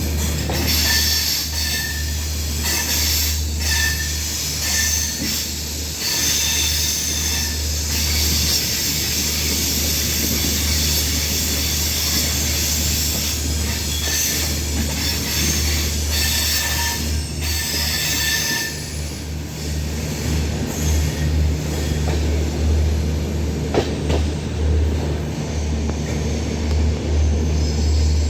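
A train running, heard from inside a passenger coach at the window: a steady low rumble under a hiss of wheel and rail noise, with short high squealing tones and scattered clicks. The high hiss drops away about 18 seconds in, leaving mostly the rumble.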